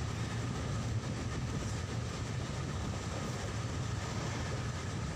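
Steady running noise of a moving passenger train heard from inside the coach at an open window: the wheels rolling on the rails and the carriage rumbling at speed.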